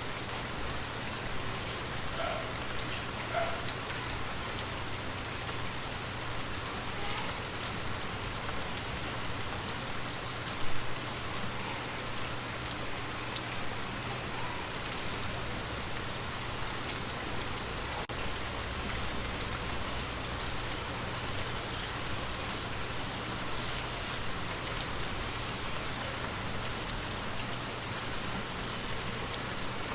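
Steady rain falling on hard surfaces, an even hiss of many drops. About a third of the way in, one short louder hit stands out.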